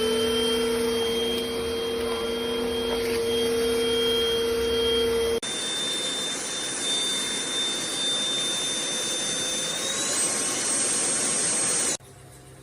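Deerma VC20 Plus cordless handheld vacuum cleaner running with a steady high whine. About five seconds in the sound changes abruptly to a higher whine, the pitch rises shortly before the end, and the motor cuts off suddenly about a second before the end.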